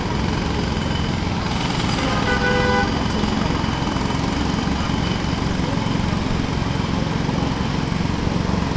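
Jackhammer pounding continuously at a rapid, even rate, breaking up pavement or concrete. About two seconds in, a brief pitched tone like a horn sounds over it for under a second.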